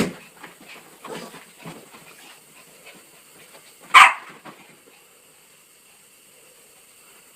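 Dog excited at feeding time: a sharp knock at the start, faint scuffling and clicking, then one short, sharp bark about four seconds in.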